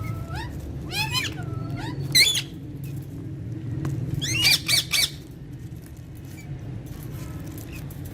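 Alexandrine parrot squawking: loud harsh calls about a second in and again near two seconds, then a quick run of three more near the middle, over a steady low hum.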